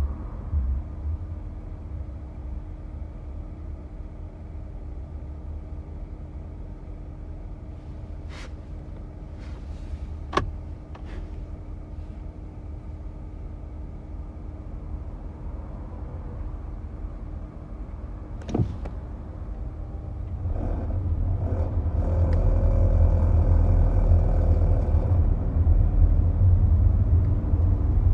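Cabin sound of a 2018 Honda Accord Hybrid, heard from the driver's floor: quiet running with a steady hum and a few sharp clicks. About two-thirds of the way through it grows louder as the car accelerates and the gasoline engine comes on, with the intermittent rattle that the owner hears only under moderate acceleration.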